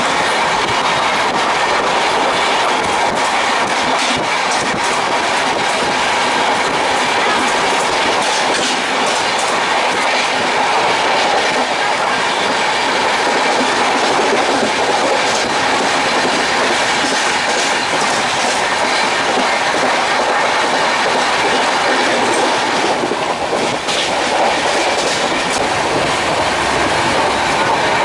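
Passenger train coach running at about 100 km/h, heard at the open window: a loud, steady rush of wheels on rail and wind.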